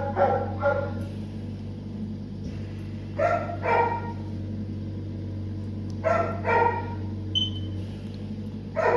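A dog barking in groups of two or three barks, roughly every three seconds, over a steady low electrical hum.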